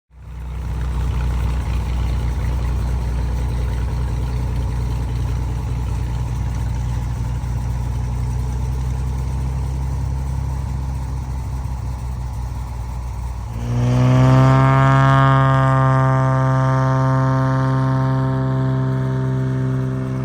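A piston engine running steadily at low speed; about fourteen seconds in, an engine opens up to full power, suddenly louder, with a strong droning tone that dips slightly in pitch and then holds, consistent with a Beechcraft Bonanza applying takeoff power.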